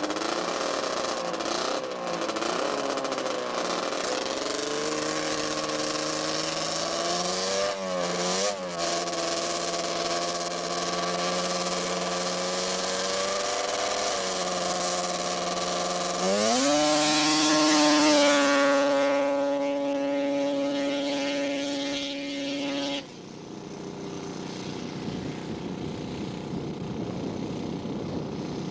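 A drag-racing snowmobile's two-stroke engine revs unevenly, then about two-thirds of the way through goes to full throttle with a sharp rise in pitch and holds one steady high note for a grass drag pass. The sound cuts off abruptly, leaving a fainter rushing noise.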